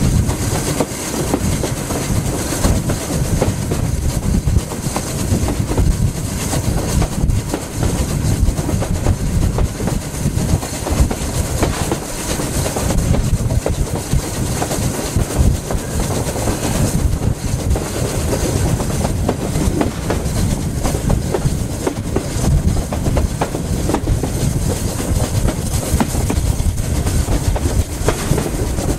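A train hauled by a GWR pannier tank steam locomotive, running along the line as heard from a carriage window: a steady rumble, with the wheels clattering over the rail joints.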